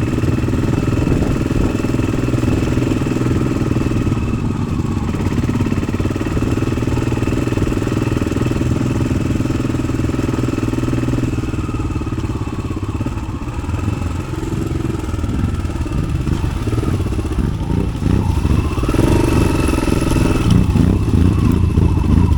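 1993 Yamaha XT600's single-cylinder four-stroke engine running through an Arrow aftermarket exhaust as the bike is ridden, easing off slightly a little past halfway and getting louder again near the end.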